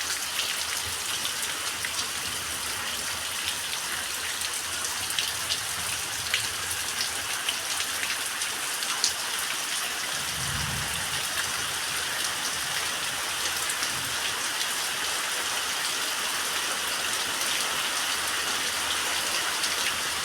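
Steady summer rain falling, with many small ticks of individual drops striking surfaces. A brief low rumble comes about halfway through.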